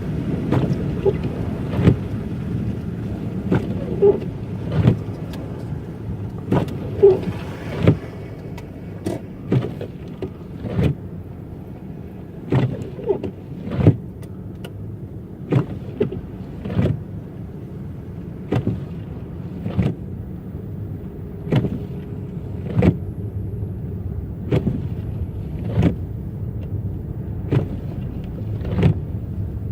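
Car driving, heard from inside the cabin: a steady low road rumble with a sharp knock or thump about every second and a half.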